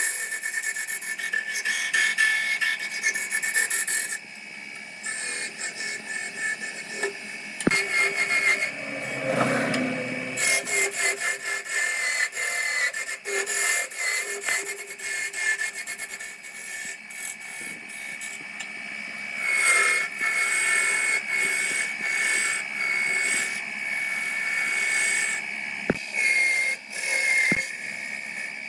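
A tool working on wood, with irregular rubbing, scraping strokes over a steady high whine, and a few sharp knocks.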